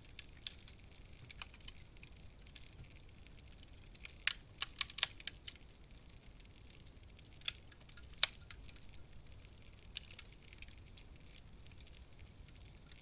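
Wood fire crackling in a fireplace: scattered sharp pops and snaps over a low hiss, with a quick cluster of loud pops a little after four seconds in and two more single loud snaps a few seconds later.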